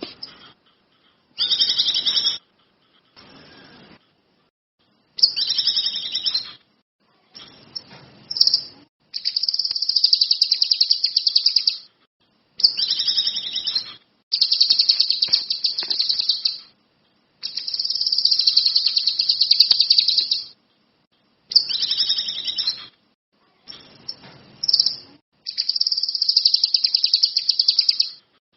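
Caged kinoi songbird singing in full voice: repeated bursts of fast, rattling trills, each about one to three seconds long, separated by short pauses.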